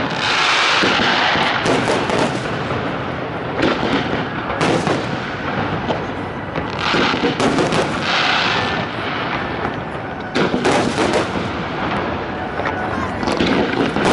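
Aerial fireworks shells bursting one after another: a string of sharp bangs over continuous crackling, with a fresh cluster of reports starting about ten seconds in.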